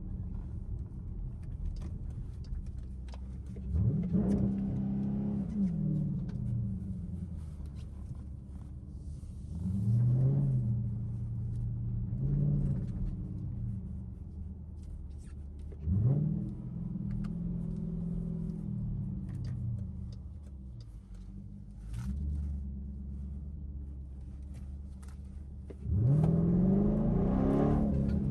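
Straight-piped Dodge Durango exhaust while driving: a steady low drone broken by several sharp rev-ups that rise and fall back, about four seconds in, twice around ten to thirteen seconds, at sixteen, and a loudest, longest pull near the end.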